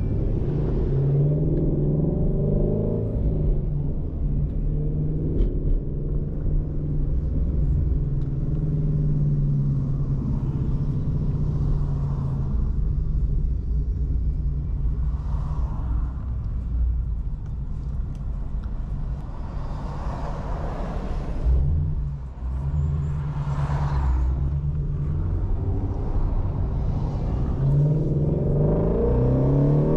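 Ford Shelby GT350's 5.2-litre flat-plane-crank V8 running under way at fairly steady revs. The revs climb near the start and again near the end, with a short dip about two-thirds through.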